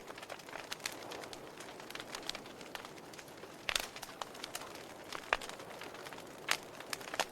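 Wood fire in a fireplace crackling: irregular sharp snaps and pops over a soft steady hiss, with a few louder pops in the second half.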